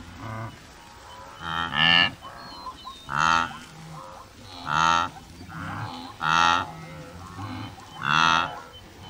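An animal calling five times, about a second and a half apart, each call short and pitched.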